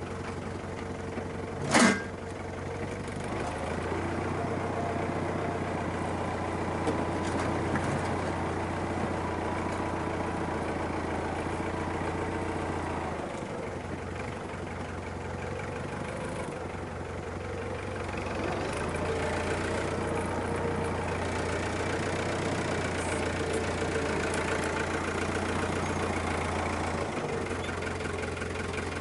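Farm tractor diesel engine running steadily, its pitch and loudness rising and easing a few times as it works under load. A single sharp clank sounds about two seconds in.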